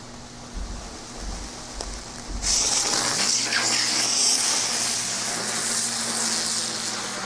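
Steady electrical hum with a few dull low thumps, then about two and a half seconds in a sudden loud, steady hissing rush as the fireworks hidden in the notebook ignite and spray.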